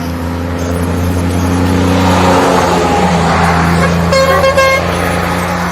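Truck engine running as it goes by, with one short horn toot about four seconds in.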